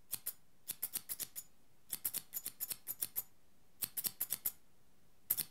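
Barber's scissors snipping hair: quick runs of crisp snips, several a second, broken by short pauses.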